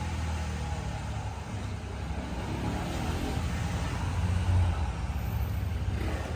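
A motor vehicle engine running steadily with a low hum, swelling slightly about four and a half seconds in.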